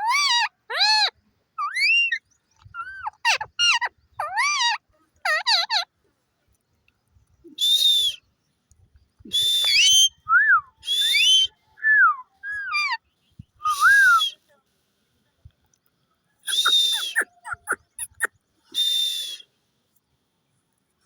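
Parrot calling: a quick run of short whistled calls, then after a pause a series of harsh screeching squawks mixed with rising and falling whistles.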